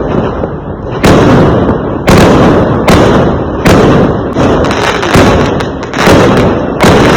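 Fireworks exploding: loud, sharp bangs about once a second, each trailing off in a rumble and crackle before the next.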